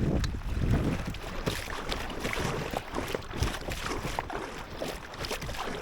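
Kayak being paddled across choppy lake water: irregular splashes and drips of the paddle around the hull.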